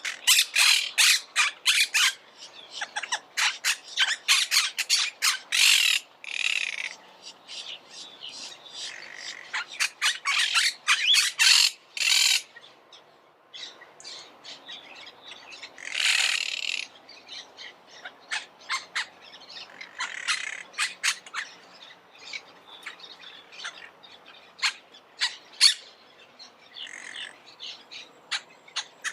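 Monk parakeets calling: rapid runs of short, sharp screeches in bursts, broken by a few longer harsh squawks.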